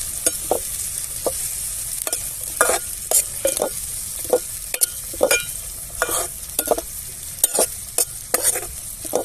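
Onions and tomatoes frying in oil in a pan, with a steady sizzle, while a spoon stirs and scrapes against the pan in short irregular strokes, about one or two a second.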